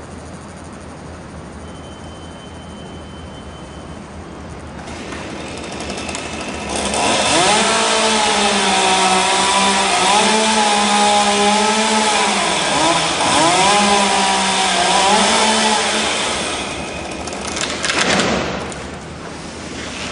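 Two-stroke chainsaw running at high revs, its pitch sagging and recovering several times as it cuts, before dropping away near the end.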